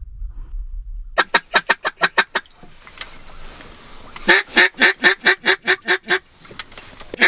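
Duck call blown in three quick runs of quacks, about six a second, the middle run the loudest. A low wind rumble on the microphone is heard before the first run.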